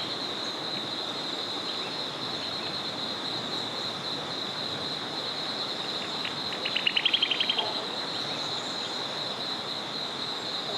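Small forest river flowing steadily under a continuous high-pitched insect chorus. About seven seconds in, a bird sings one short trill of quick notes that rise in pitch.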